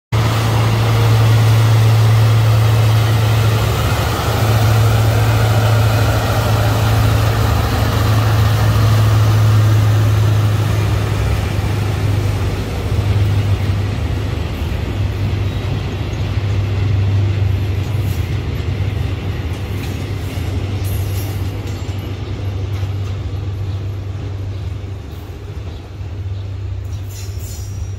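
Ballast train hauled by an Alsthom diesel locomotive rolling past: the wagons rumble on the rails over a steady low hum, and the sound fades gradually as the train draws away.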